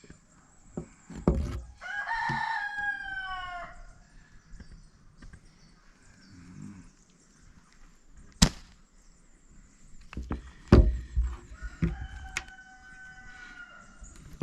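A rooster crowing twice, the first crow falling in pitch at the end. There are a couple of sharp knocks in between.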